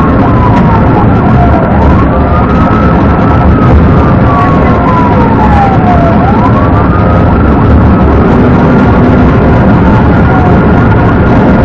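Police car siren on a slow wail, its pitch falling and rising over several seconds at a time, over the steady rumble of a vehicle driving at speed.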